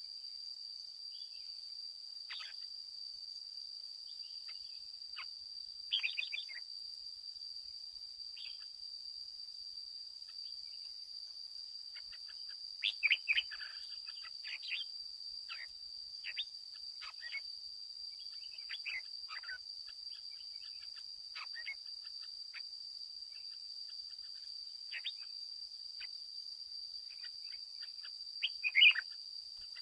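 Red-whiskered bulbuls singing and calling in short, scattered phrases, loudest a few seconds in, around the middle, and just before the end. A steady high insect drone runs underneath.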